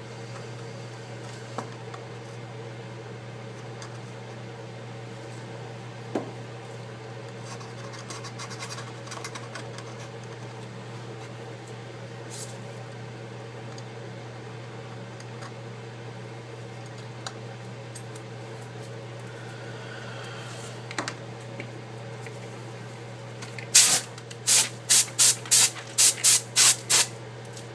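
Steady low hum with faint scratching, then near the end about nine short, sharp hissing bursts in quick succession, typical of a can of compressed air being fired in short squirts.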